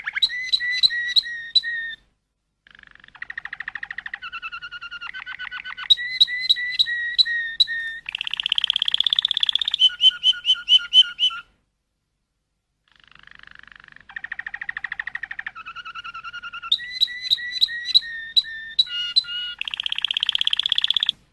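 Songbird singing a run of varied phrases: fast trills and quickly repeated high whistled notes, with two short breaks between phrases.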